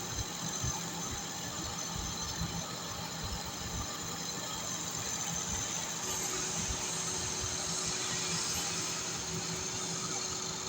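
Metalworking lathe running steadily with a low hum and irregular light knocking; about six seconds in a higher, steady tone and a brighter hiss join it.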